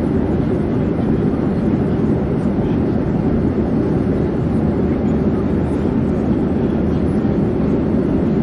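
Steady drone of an airplane in flight: an even, unchanging rumble and rush, heaviest in the low range.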